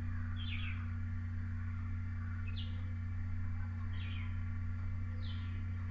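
A bird calling: four short, high chirps, each falling in pitch, spaced a second or so apart, over a steady low hum.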